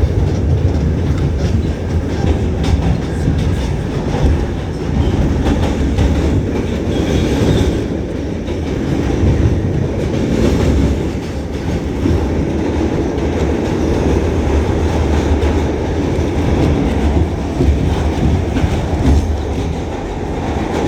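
New York City subway D train running at speed through the tunnel, heard from inside the car: a loud, steady low rumble of wheels on the track.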